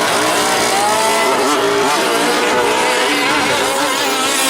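Several 1/5-scale gas RC trucks' small two-stroke engines racing at once, their pitches climbing and dropping as they rev up and back off around the track.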